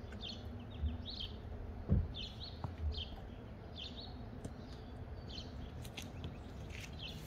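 Birds chirping in short, quickly repeated high phrases over a low steady background rumble, with a few dull thumps in the first three seconds, the loudest about two seconds in.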